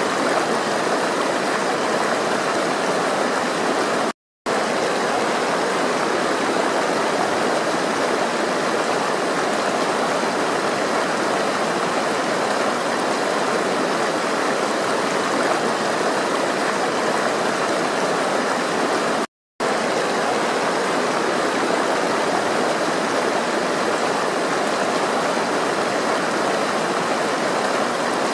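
Flowing water rushing steadily, like a stream. The sound drops out to silence twice, briefly: about four seconds in and again just past the middle.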